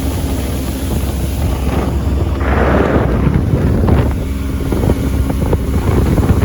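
Motorboat's 90 horsepower engine running under way, a steady low hum, with wind buffeting the microphone. A brief rush of noise comes about two and a half seconds in.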